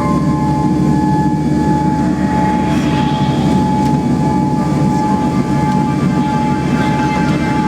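Cabin noise inside an ANA Boeing 787-8: a steady, loud low rumble of the engines and airframe, with several steady whining tones above it, a few of which shift in pitch partway through.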